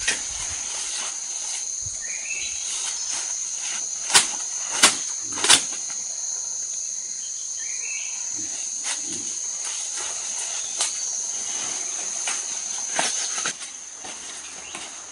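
Insects, likely crickets or cicadas, keeping up a steady high-pitched drone that stops short about thirteen seconds in. Three sharp clicks come in quick succession a little past four seconds.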